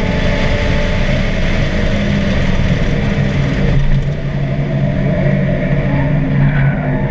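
Mazda NC Miata's four-cylinder engine running hard on track, heard from inside the car over road and wind noise, easing off briefly about four seconds in before pulling again.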